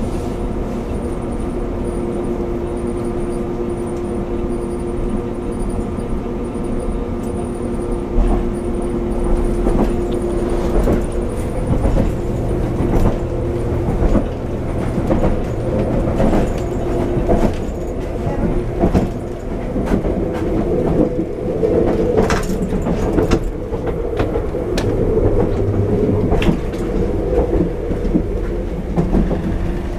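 Diesel passenger train heard from inside the carriage: a steady mechanical drone at first, then from about eight seconds in the wheels start to clatter over rail joints, with knocks and rattles while the train runs along the line.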